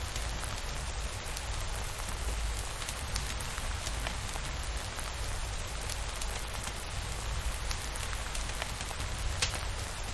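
Steady rain falling, with a low rumble underneath and scattered sharp ticks of single drops.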